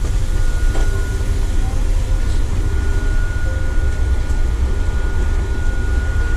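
Steady low mechanical rumble with faint voices in the background, and a thin, steady high whine that comes in about two seconds in.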